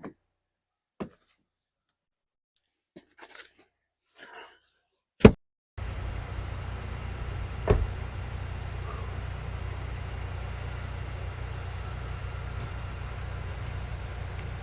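A few faint clicks and rustles, then a single sharp knock about five seconds in. Straight after it a steady low rumble and hiss of outdoor noise sets in, with one dull thump a couple of seconds later.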